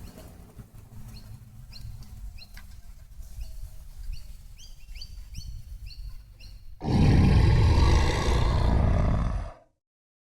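Small birds chirping repeatedly over a low rumble. About seven seconds in, a sudden loud noise lasting about three seconds takes over and cuts off.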